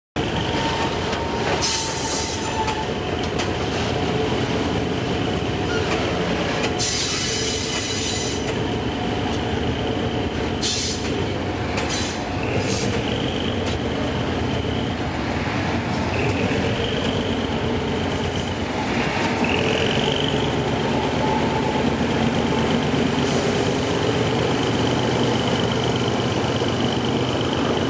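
Express train hauled by diesel locomotive No. 4514 pulling out of a station: the locomotive's engine running under the steady rumble of the carriages, with steel wheels squealing on the rails in a high tone that comes and goes, rising in pitch several times. A few short high hisses sound in the first half.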